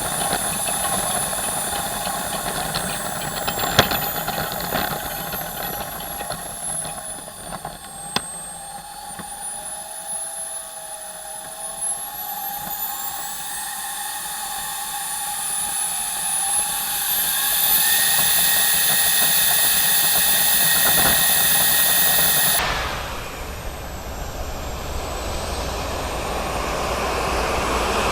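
Small jet turbine engine of a jet-powered wheelchair running with a high whine. Its pitch sinks, then climbs to a high steady whine, drops away suddenly about 22 seconds in, and then builds again. Two sharp clicks come through in the first eight seconds.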